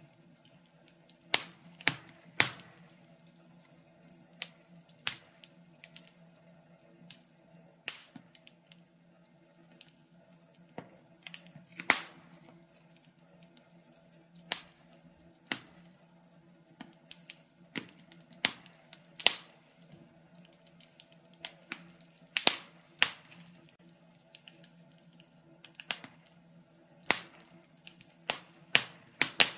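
Wood fire crackling in a fireplace: irregular sharp pops and snaps, a few much louder than the rest, over a faint low steady hum.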